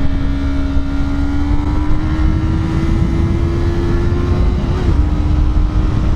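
Yamaha R3's parallel-twin engine pulling steadily under way, its pitch creeping slowly up, with a brief dip about five seconds in. Heavy wind rush on the microphone lies under it.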